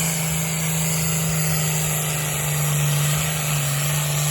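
Engine of a pulling truck or tractor running loud and steady on the track. Its pitch steps down slightly about three and a half seconds in.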